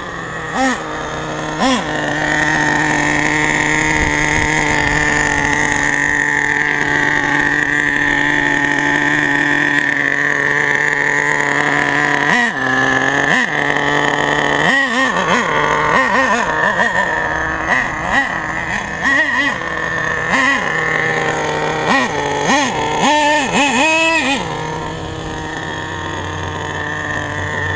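Small 4.6 cc two-stroke nitro engine of an HPI Savage RC monster truck running steadily at a high buzzing pitch. About halfway through it is blipped in a rapid series of short revs for roughly ten seconds, then settles back to a steady note.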